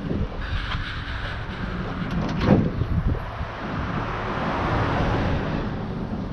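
A vehicle running with a steady low rumble, and a single knock about two and a half seconds in; a wider rushing noise swells and fades in the second half.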